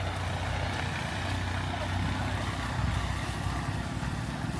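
An engine running steadily, a low hum with a constant hiss over it.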